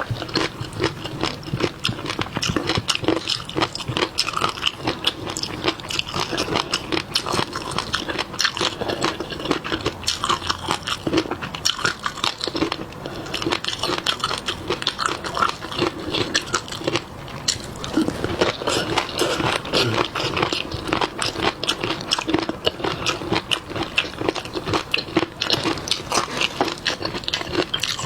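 Close-miked chewing and biting of seafood: a dense, irregular run of wet smacks, clicks and crunches.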